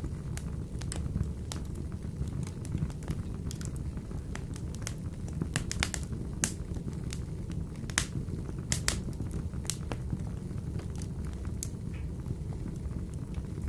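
Wood fire burning in a wood-burning stove: a steady low rumble of flame with irregular sharp crackles and pops, a few louder snaps about six and a half, eight and nine seconds in.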